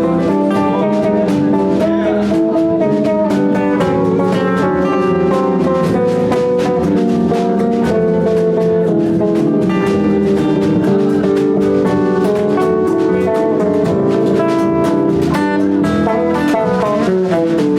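Live band playing: electric guitar over a drum kit keeping a steady beat, with no singing.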